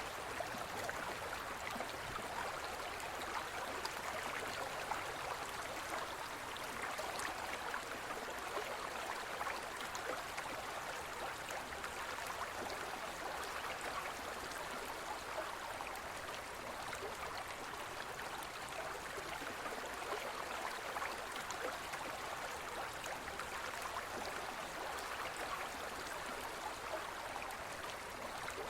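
Gentle forest stream flowing: a steady rush of water with many small splashes.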